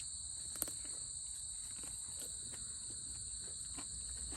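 Steady insect chorus: a continuous high, shrill drone of two even pitches. A single sharp click comes under a second in, with faint soft knocks scattered through.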